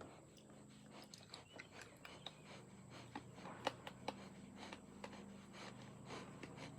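Near silence: quiet room tone with a low steady hum and faint scattered ticks and clicks, the sharpest about two-thirds of the way through.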